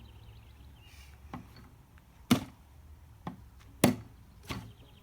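A few sharp knocks at uneven intervals, the two loudest a little after two seconds and near four seconds in, with faint high chirps, like birds, behind them.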